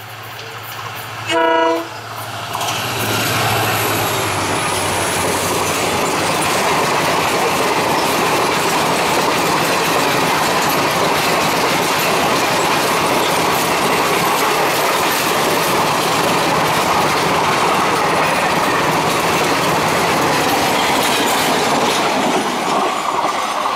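The WDP-4D diesel locomotive sounds one short horn blast about a second and a half in. The coaches of the express then run past close by, a loud steady rush of wheels on rails that lasts about twenty seconds.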